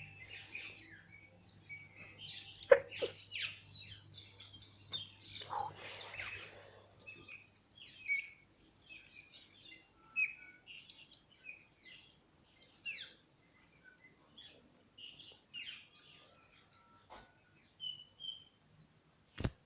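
Small birds chirping in many short, high calls in quick succession. A sharp click comes about three seconds in, and another just before the end.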